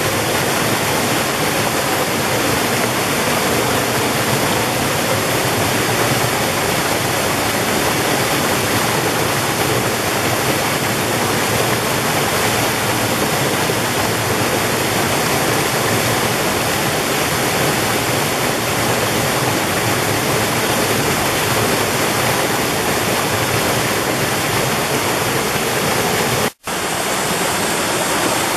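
Mountain valley stream rushing steadily over rocks, a loud, even wash of water. It cuts out for an instant near the end and resumes.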